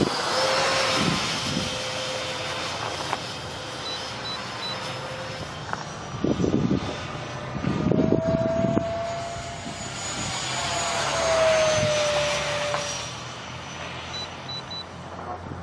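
An RC jet's 68 mm electric ducted fan with a ten-blade rotor, running with a steady high whine. Its pitch steps up about eight seconds in and glides back down a few seconds later as the throttle or distance changes.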